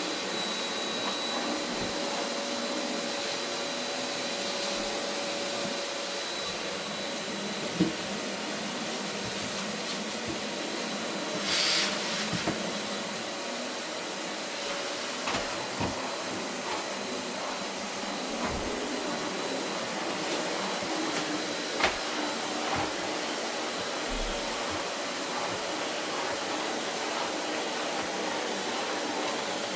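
Vacuum cleaner running steadily over carpet, a constant airflow rush with a faint steady whine, broken by a few short knocks and a brief louder rush about twelve seconds in.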